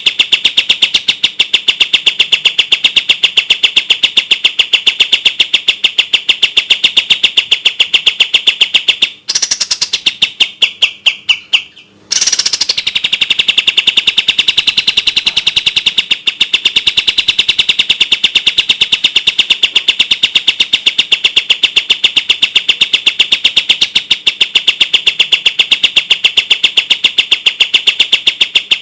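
Kapas tembak song: a very fast, closely spaced rapid-fire run of clear high notes. About nine seconds in it breaks for a few seconds with a short phrase falling in pitch, then the fast run starts again.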